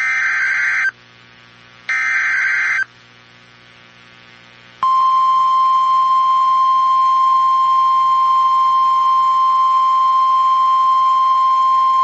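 NOAA Weather Radio emergency alert: the last two bursts of the SAME digital header, each a harsh buzzing data burst about a second long. About five seconds in comes the steady single-pitch 1050 Hz warning alarm tone, which announces a new severe thunderstorm warning.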